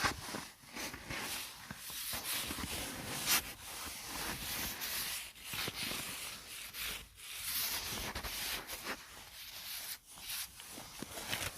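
Close rubbing and scratching on a surface, a run of irregular scratchy strokes.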